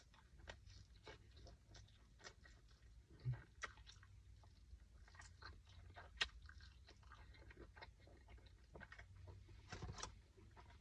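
A person chewing and biting food close to the microphone: faint, irregular wet clicks and crunches, with a couple of louder bites.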